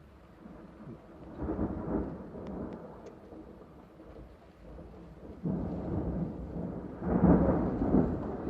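Thunder rumbling in two rolls over steady rain: a first roll a little over a second in, then a second that starts suddenly about five and a half seconds in and swells louder near the end.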